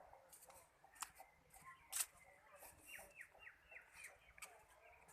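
A bird calling: a quick series of about six short falling notes, with a few sharp clicks around it, the loudest about two seconds in.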